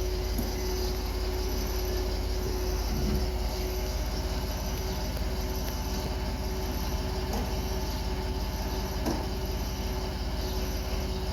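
A steady low machine hum with a faint constant tone, and a few faint clicks along the way.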